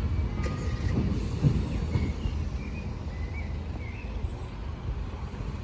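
Train running past on the railway line, a low rumble with a few wheel knocks over the rail joints, fading away as it moves off.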